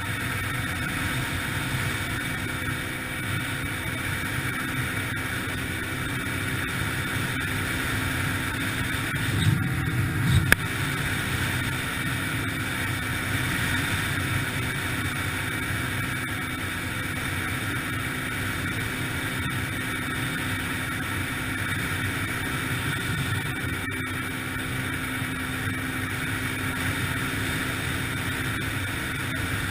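2003 Yamaha TTR-125LE dirt bike's single-cylinder four-stroke engine running at a steady speed while riding. About ten seconds in there is a brief bump and a sharp knock.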